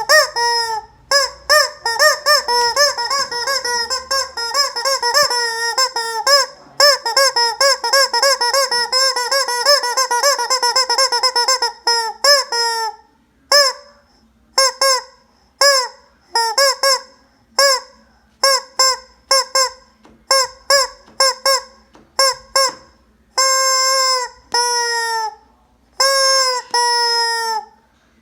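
A chicken calling loudly over and over in short, falling calls. For about the first twelve seconds they come in quick unbroken strings; after that they come singly or in pairs with gaps, with a few longer calls near the end.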